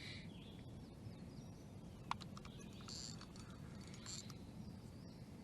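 Faint open-air background on the water with a few short, high bird chirps and a single sharp click about two seconds in.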